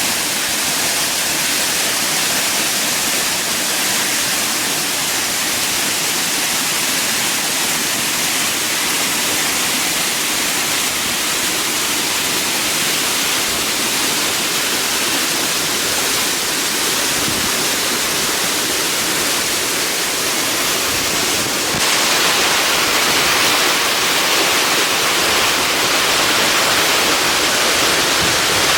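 Rushing water, a steady loud wash with no distinct splashes, growing louder and brighter about 22 seconds in.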